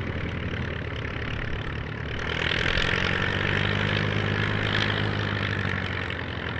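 De Havilland Gipsy piston engine of a light propeller aircraft running steadily, its note growing louder about two seconds in and easing near the end.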